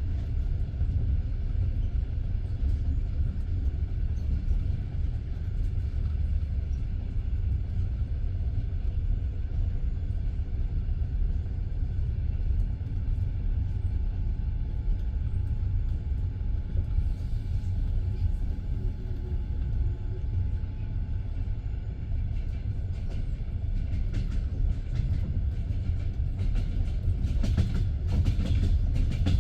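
Passenger train running along the line, heard from inside the carriage: a steady low rumble of the wheels on the rails. In the last few seconds the clicks and knocks of the wheels over the track come thicker and louder.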